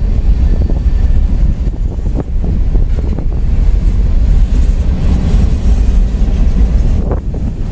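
CSX freight train's open-top hopper cars rolling past: a steady, heavy low rumble of steel wheels on rail, with scattered clicks from the wheels and rail joints.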